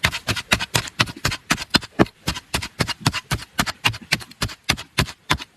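A rapid, even series of sharp knocks, about four a second, starting abruptly.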